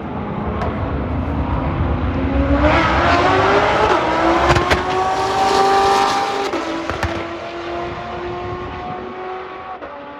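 A drag car accelerating hard down the strip. Its engine pitch climbs, drops back twice at the upshifts, then the sound fades as the car pulls away.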